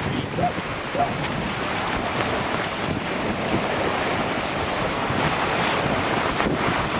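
Strong gusty wind blowing over the microphone, with sea surf washing on the beach.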